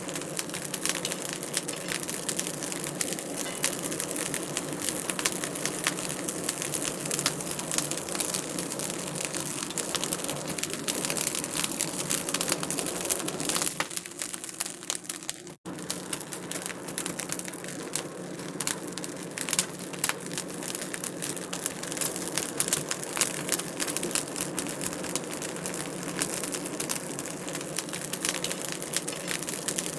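Wood fire in a fireplace crackling steadily, a constant stream of small pops and snaps over a soft rush of flame. About halfway through it quietens for a moment and drops out very briefly, then carries on as before.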